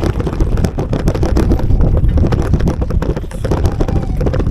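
Wind buffeting the microphone while riding a bicycle: a loud, constant low rumble with rapid crackling.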